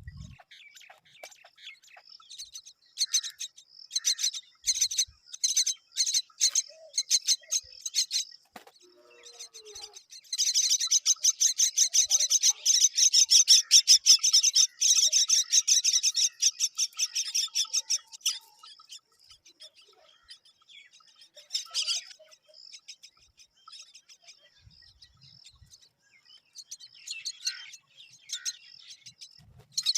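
Baby myna birds chirping: rapid, high-pitched calls that come in scattered runs, with a dense, loud stretch of fast chirping through the middle.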